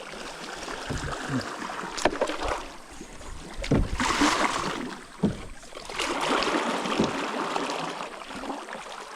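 Rushing water and paddle strokes as a paddled boat runs a small creek rapid. The rush of water swells twice in the middle, and a few sharp knocks sound along the way.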